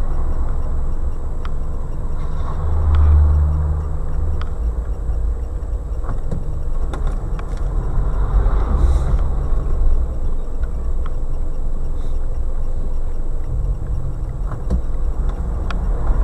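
Car engine and road noise: a steady low rumble, with a few faint ticks.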